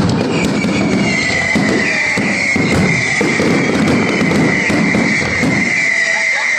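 Fireworks display: a dense, continuous run of bangs and crackles, with a long high whistle that starts about half a second in and holds steady through the rest.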